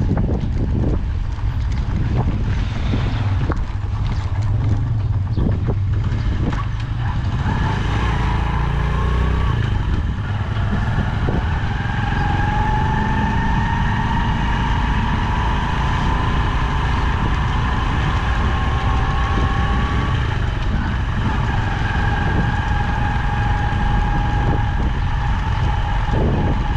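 Motorcycle riding at road speed through street traffic, its engine running with a steady low rumble. From about seven seconds in a steady whine joins it, drifting slowly in pitch and dropping a little near the two-thirds mark.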